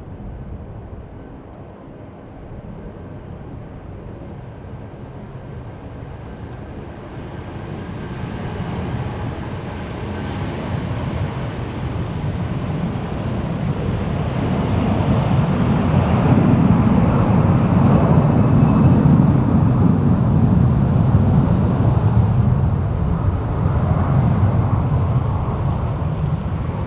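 Jet airliner's engines passing close: a rumbling roar that builds over about ten seconds, is loudest around two-thirds of the way through, then eases a little.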